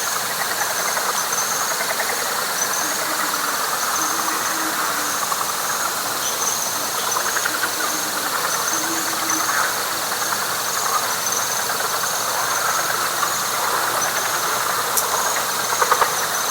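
Night chorus of frogs and insects: a dense, steady trilling of many frogs, a pulsing high insect buzz above it, and short low calls repeated every second or two.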